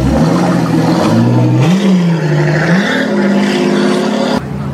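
A car engine revving, its pitch rising and falling several times, with an abrupt change in the sound shortly before the end.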